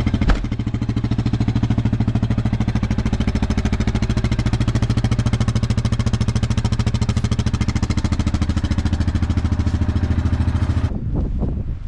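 Small vehicle engine running steadily at an even pitch, with a fast regular pulse. It stops abruptly about a second before the end, followed by a few knocks.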